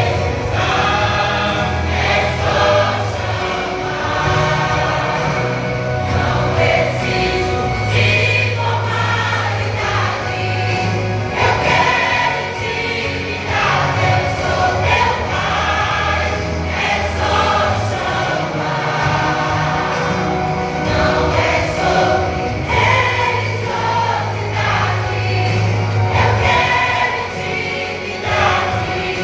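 Worship vocal group singing a gospel song together in harmony over instrumental accompaniment with sustained bass notes.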